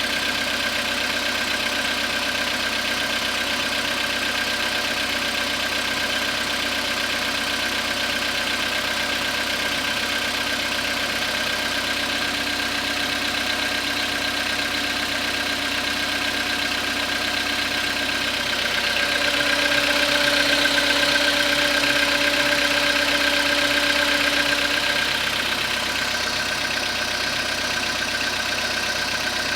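Skoda Rapid's 1.6 CFNA petrol engine idling about a minute and a half after a cold start near freezing, with the knock that the owner takes for an engine fault. About 19 seconds in, a steady hum joins and the level rises a little. It fades out some six seconds later.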